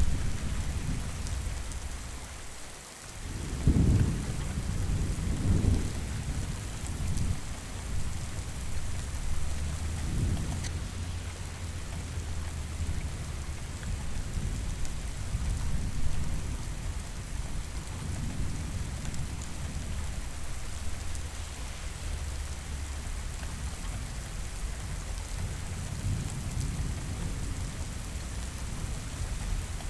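Steady heavy rain with rolling thunder. A deep rumble swells in about 4 seconds in, after a brief lull, and softer low rumbles keep rolling under the rain.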